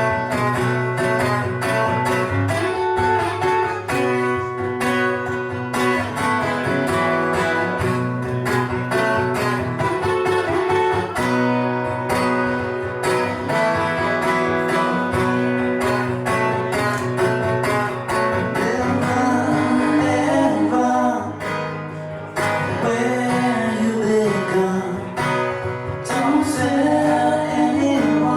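Live band music: a guitar-led instrumental passage between sung verses, with steady strummed guitar and bending melodic notes in the second half.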